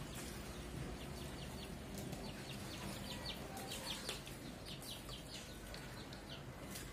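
Faint chirping of birds: short, high chirps coming in quick runs, most of them in the middle stretch.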